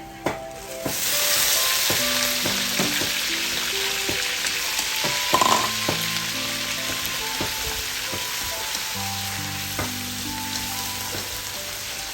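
Food dropped into a hot pan of oil: a loud sizzle starts suddenly about a second in and slowly dies down as it fries, with a few sharp knocks along the way.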